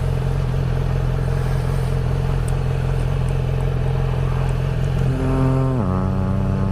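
Motorcycle engine running steadily while riding. Near the end a higher engine note comes in, drops in pitch and then holds.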